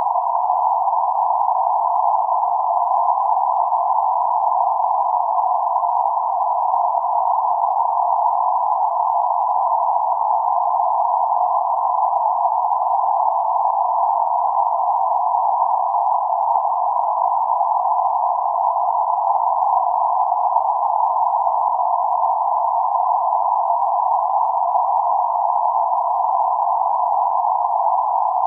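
Synthesized band-limited noise centred around 848 Hz: a steady, unchanging hiss confined to a narrow band of mid frequencies, with nothing above or below it.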